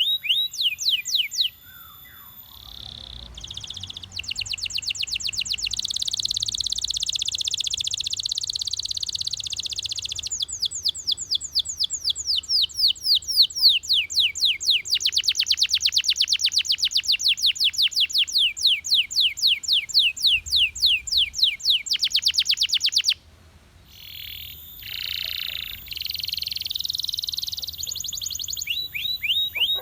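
Belgian canary singing a long song of rapid trills, each a fast run of repeated high notes, switching from one trill to the next at different speeds. There are short breaks about two seconds in and again near 23 seconds.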